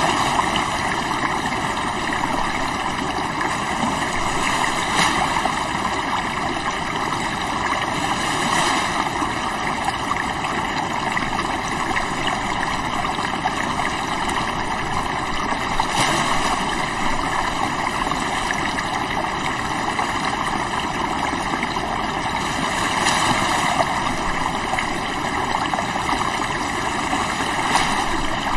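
River water flowing in a steady rush, with small swells now and then.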